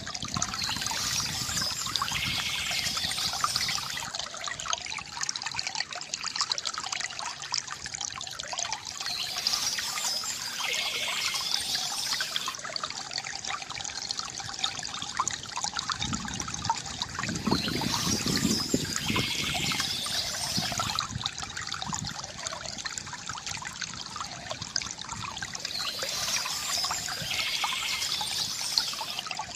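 Water from a bamboo fountain trickling and gurgling steadily, with birds chirping in short spells that come back about every eight or nine seconds.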